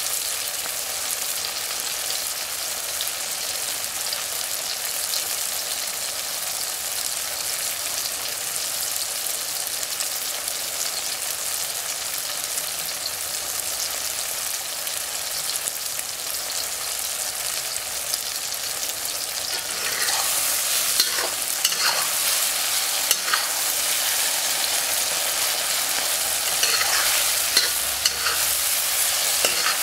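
Sliced sausage, tomatoes and pepper rings sizzling in oil in a wok. About twenty seconds in, a spatula starts stirring them, with short scrapes and clinks against the wok over the steady sizzle.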